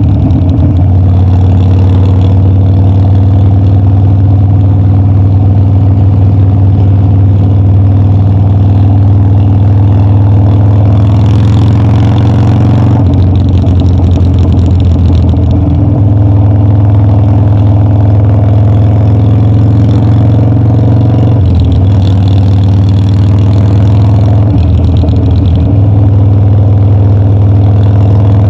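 Harley-Davidson Dyna's V-twin engine running on the road, loud and steady. Its pitch rises and then steps down about halfway through, and steps again about three quarters of the way through.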